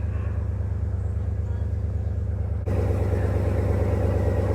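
Ram 1500's Hemi V8 engine idling with a steady low hum. About two and a half seconds in, the sound jumps abruptly louder and rougher.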